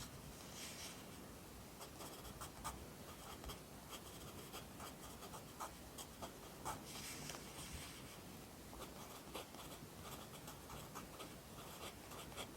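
Pencil writing on paper: irregular short scratchy strokes and light taps as characters are written by hand, with longer scratches about half a second in and around seven seconds.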